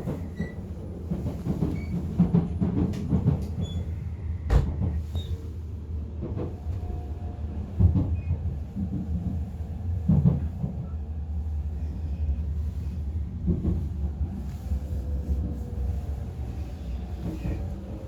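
Running rumble of a Shinkansen bullet train heard from inside the carriage, with scattered knocks and clunks. A faint whine falls slowly late on.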